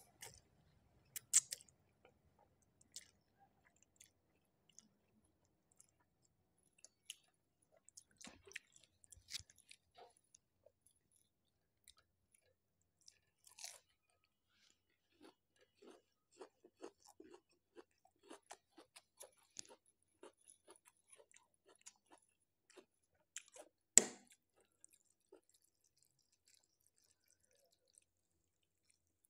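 Close-miked mouth sounds of eating spicy instant noodles: slurping in noodles, then soft, wet, rhythmic chewing with small mouth clicks. A single sharp click or knock stands out about three-quarters of the way through.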